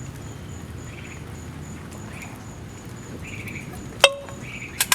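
Crickets chirping steadily in a rapid, even rhythm, with two sharp metallic clinks near the end, the first ringing briefly.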